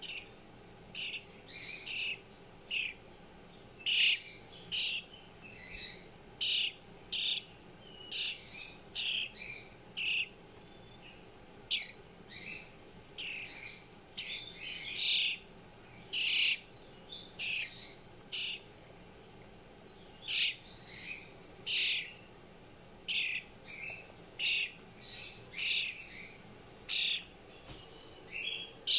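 Fledgling songbird calling over and over with short, rasping begging calls, about one to two a second, as a hungry young bird asks to be fed.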